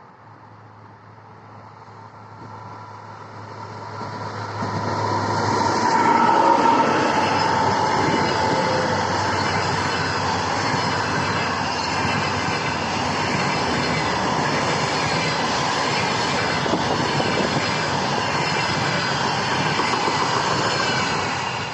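An EP2K electric locomotive hauling a passenger train approaches and passes at speed. It grows from a distant rumble to a loud, steady rush of wheel and rail noise, with a brief whine near 1 kHz as the locomotive comes by. The sound drops off sharply near the end.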